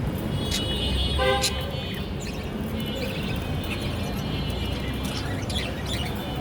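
Small pet parrots (budgies and lovebirds) chirping and chattering in many short high calls, with one louder call about a second in, over a low steady hum.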